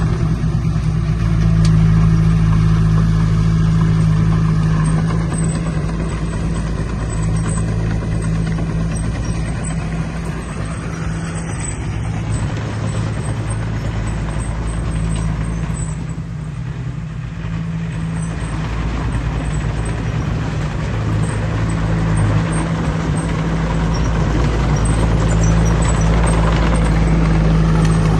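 Heavy diesel engine of earthmoving machinery running steadily. It eases off a little around the middle and builds again toward the end.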